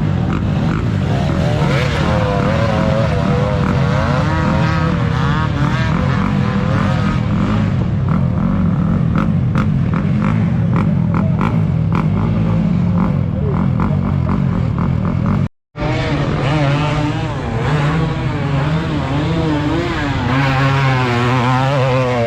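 Motocross bike engines running and revving, the pitch rising and falling continually as the throttle is worked. The sound breaks off for a split second about two-thirds of the way through, then resumes.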